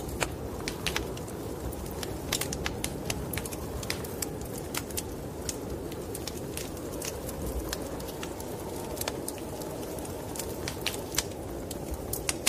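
Wood fire in a fireplace crackling, with irregular sharp pops and snaps over a steady low rushing background of wind.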